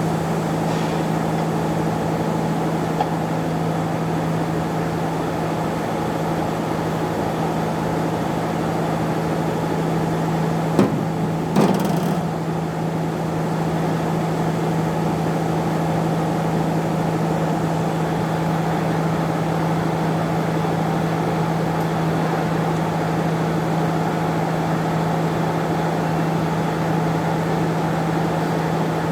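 A machine running with a steady hum, with two short knocks about eleven and twelve seconds in.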